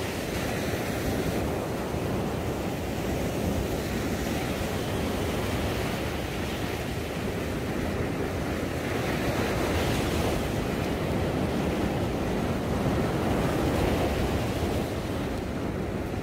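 Surf washing onto a sandy beach, a steady rush that swells a little now and then, with wind buffeting the microphone.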